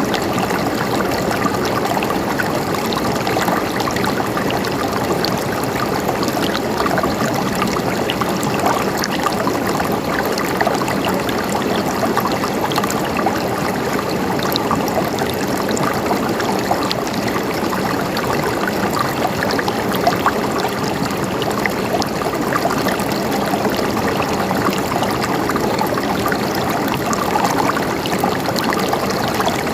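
River water flowing and splashing steadily over rocks.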